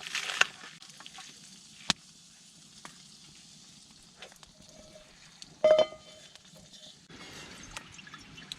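Low crackling and sizzling from the wood fire in the grill and fire pit, with a sharp click about two seconds in. Near the middle comes a brief ringing clink, like metal being struck, and a steady hiss comes in near the end.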